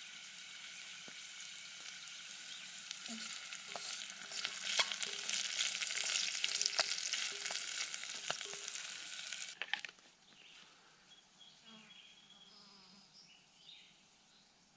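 Burdock stems frying in olive oil in a pot over campfire embers: a dense sizzle with scattered knocks as the pot is stirred with a wooden stick, louder in the middle. About ten seconds in it cuts off suddenly, leaving quiet outdoor sound with faint bird chirps.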